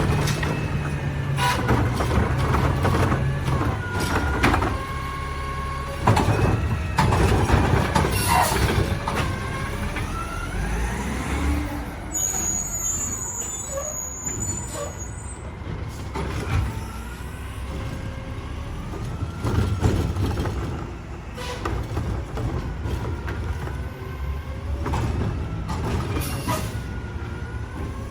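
Mack LR garbage truck working, its diesel engine running heavily with whining tones that rise and fall. Repeated clanks and air-brake hisses are heard throughout.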